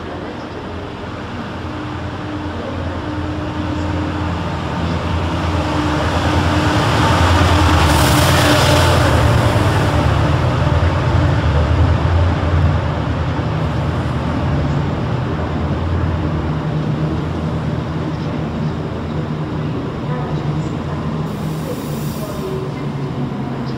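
TransPennine Express train running past along the platform: a low drone and rumble that builds to its loudest about eight seconds in as the coaches come alongside, then slowly eases off. There is a short hiss about eight seconds in and another near the end.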